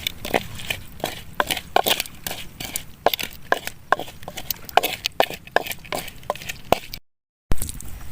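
A run of irregular sharp knocks and cracks, several a second, some with a short ringing tone; it breaks off about seven seconds in.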